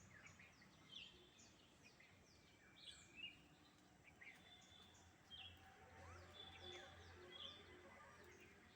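Faint birds chirping: many short, high, quickly falling calls scattered throughout, over a quiet outdoor background.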